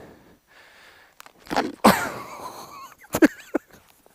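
A person's wordless, cough-like vocal outbursts: a loud burst about one and a half seconds in, running on for a second, and another short one about three seconds in.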